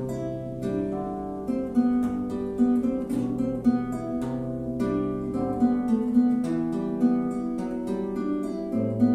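Solo plucked string instrument playing a melody over a bass line, note after note at a steady pace with a few sharper plucks.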